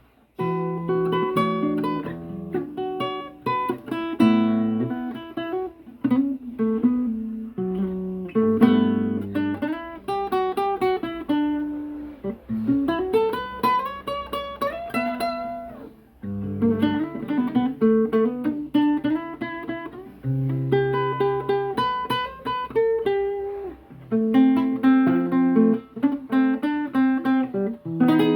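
Improvised solo acoustic guitar playing plucked single notes and chords, with a few notes sliding up in pitch near the middle.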